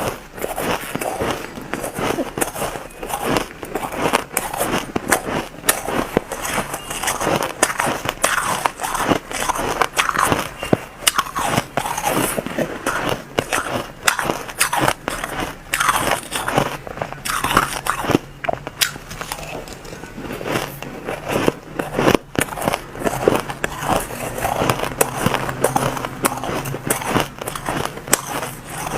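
Crushed white ice being bitten and chewed close to the microphone: dense, irregular crunching and crackling that goes on without a break.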